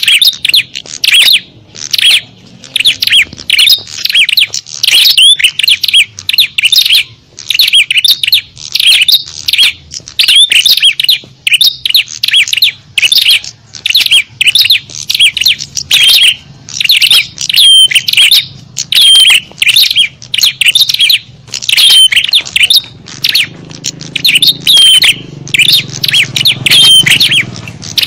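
Loud, dense chatter of small songbirds, rapid high chirps and twitters overlapping without a break: a small-bird lure call (suara pikat) of the kind played to draw wild birds in.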